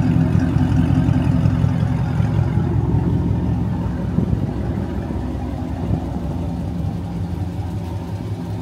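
Dodge Charger Scat Pack's 392 (6.4-litre) HEMI V8 idling with a steady, deep exhaust rumble, easing off slightly near the end.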